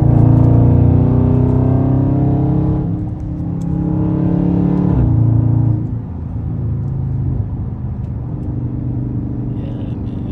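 V8 exhaust of a Dodge Charger Scat Pack with its mid mufflers deleted, pulling hard twice with a drop in pitch about three and five seconds in, then settling to a steady, quieter drone.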